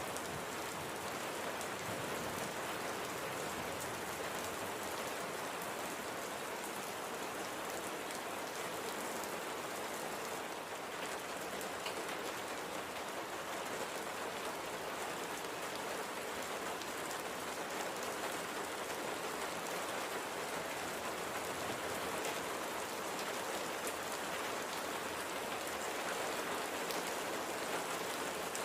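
Light, gentle rain falling steadily: an even hiss of rain on surfaces with scattered drops ticking.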